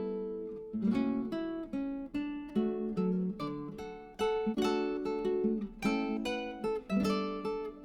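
Background music: acoustic guitar playing plucked and strummed chords, each note ringing and fading.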